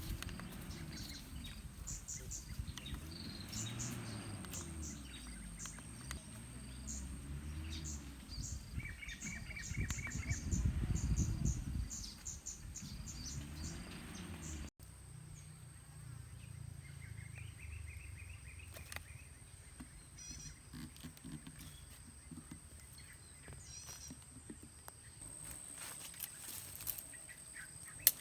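Tropical forest ambience: a steady high insect whine with bursts of quick repeated bird chirps, over a low rumble of wind or handling noise on the microphone. A single sharp click sounds near the end.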